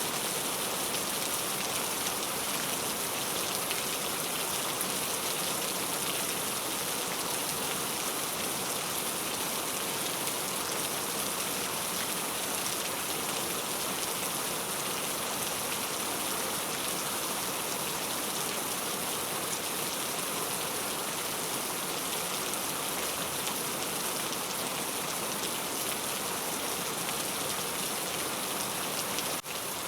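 Heavy rain falling steadily, an even dense hiss of drops, with a brief dip in level near the end.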